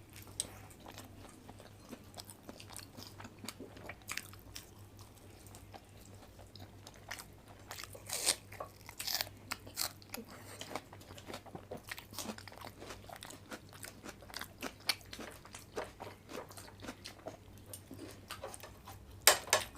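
Close-up eating sounds: irregular crisp crunches and chewing of a deep-fried, breadcrumb-coated egg devil, over a faint steady low hum.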